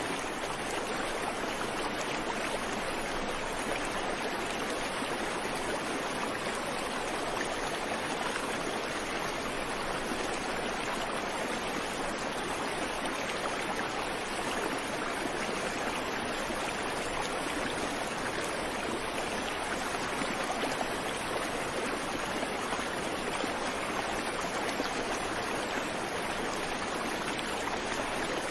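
A creek flowing over rocks, a steady rush of running water with no birds.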